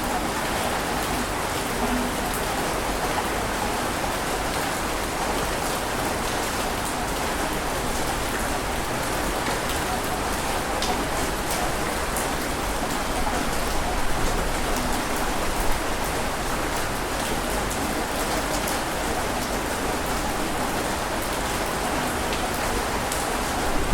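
Steady rain falling: an even hiss with scattered drop ticks, swelling slightly about halfway through.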